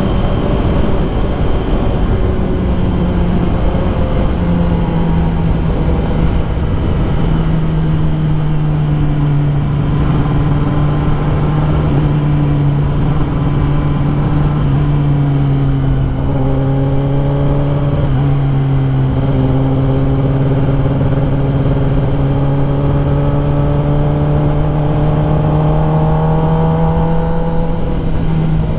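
Kawasaki ZX-10R's inline-four engine running at steady cruising revs, its pitch easing down a few seconds in and climbing gradually near the end, over heavy wind rush on the microphone.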